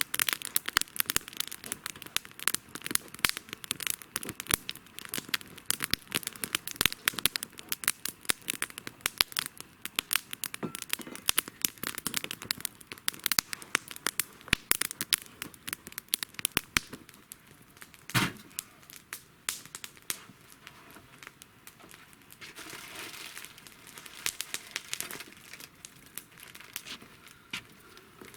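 Campfire crackling with many sharp snaps, densest in the first half, with one louder pop about 18 seconds in, while water is heated for tea.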